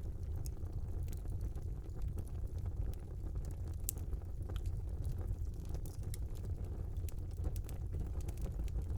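Wood fire burning in a small fireplace: a steady low rumble of flame with scattered crackles and pops, one sharper pop about four seconds in.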